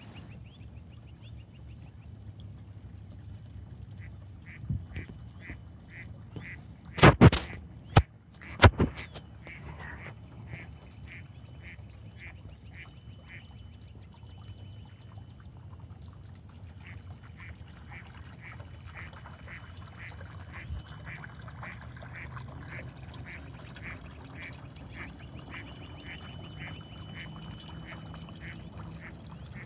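A bird, taken for a duck, calling in a steady series of short high notes, two to three a second, with a brief pause about halfway. A few loud sharp knocks come close together about seven to nine seconds in.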